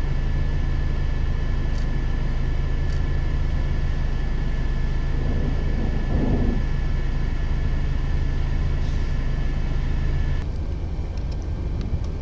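Steady low hum of a running vehicle engine, with a steady high whine over it that cuts off sharply about ten seconds in.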